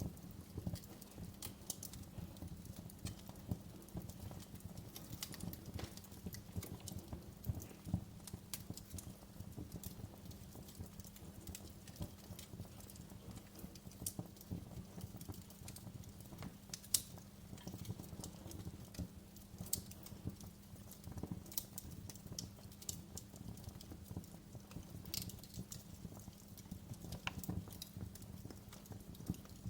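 Wood fire crackling in a fireplace: frequent sharp pops and snaps at uneven intervals over a low, steady rumble, with one louder pop a little past the middle.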